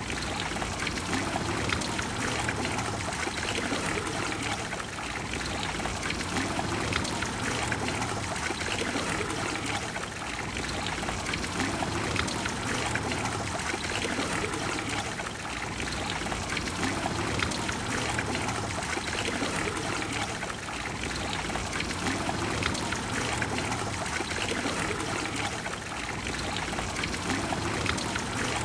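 Water of the Trevi Fountain flowing and splashing into its basin, a steady rush of falling water.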